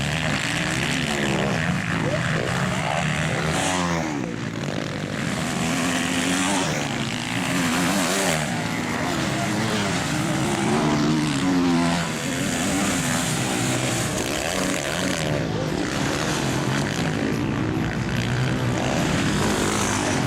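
Several motocross bikes racing together, their engines revving up and down and overlapping as they accelerate and shift.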